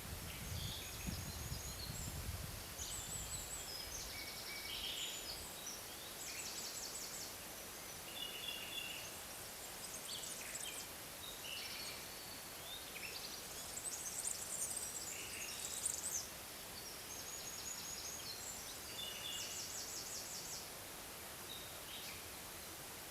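Several small birds singing in a forest: short high trills and chirps, phrase after phrase, over a steady background hiss. A low rumble sounds in the first few seconds, and the singing stops shortly before the end.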